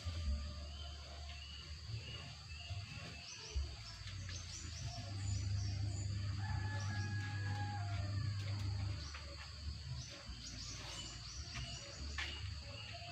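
Birds chirping and calling, with many short, high chirps and a few longer held calls, over a steady high-pitched drone and a low rumble.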